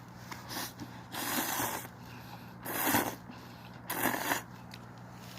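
A person slurping ramen noodles: three short, noisy slurps about a second apart, over a steady low hum.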